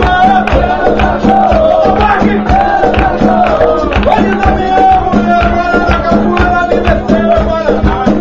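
Capoeira roda music: berimbau twanging over hand-drum and rattle strikes, with voices singing a melody over the beat.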